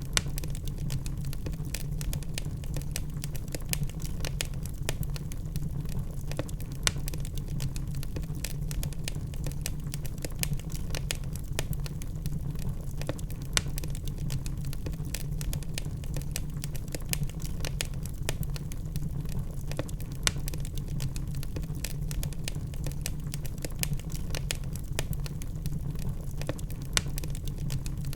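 Log fire crackling in a fireplace: a continuous scatter of sharp pops and snaps over a steady low rumble.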